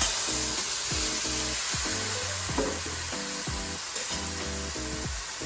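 Chicken pieces frying in hot oil with sugar caramelized dark brown: a loud sizzle that slowly fades. Background music with a steady beat plays underneath.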